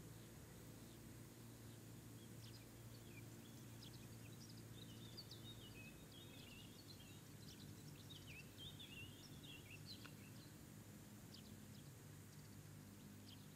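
Faint outdoor ambience: small birds chirping now and then over a low steady hum.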